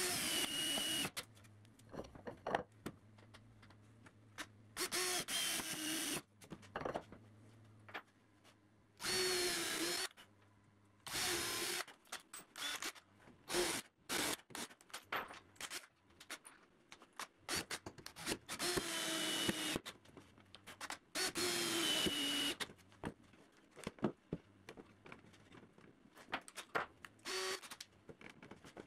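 Cordless drill/driver running in short bursts of about a second each, its motor whine dipping in pitch as it drives screws into the wooden parts. Sharp clicks and knocks of wooden pieces being handled fall between the bursts.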